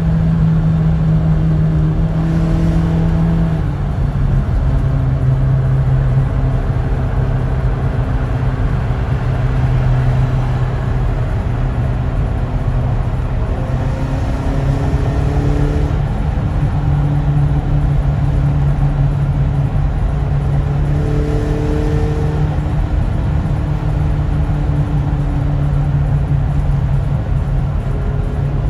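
Exhaust note of a 50-series Toyota Estima's 2.4-litre four-cylinder engine running steadily through its muffler, its pitch shifting slightly a few times.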